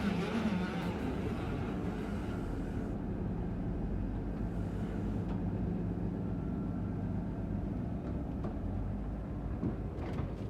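Koman 500 silage packing machine running, a steady low mechanical hum. A higher hiss over it stops about three seconds in.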